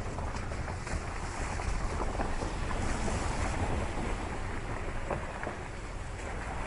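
Vehicle driving on a rough dirt track: a steady low rumble with wind buffeting the microphone and scattered small knocks and rattles.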